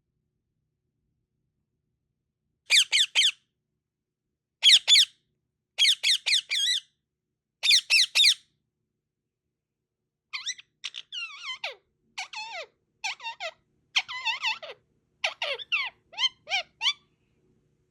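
Pet parrot chirping and making kissing sounds in short high-pitched bursts with silence between them. The first groups are quick repeated kiss-like squeaks; from about halfway there is a run of varied, mostly falling chirps.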